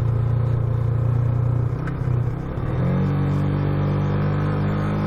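Motorcycle engine running while riding. Its note dips briefly about two seconds in, then settles at a steady higher pitch about a second later.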